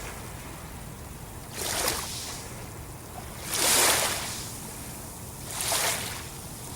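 Sea waves breaking: three rushes of surf about two seconds apart over a steady low rumble of the sea.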